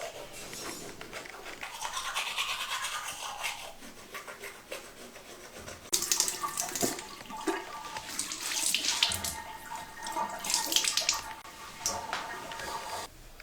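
Bristle brush scrubbing in bursts of quick strokes, a scratchy, mostly high-pitched rasp, louder in the second half.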